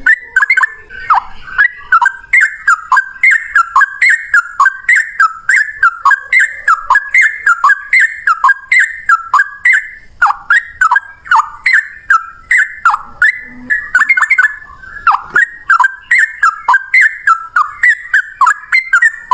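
Yellow-vented bulbul (trucukan) singing a long, unbroken run of quick whistled notes that dip and rise again, several a second, with sharp clicks among them.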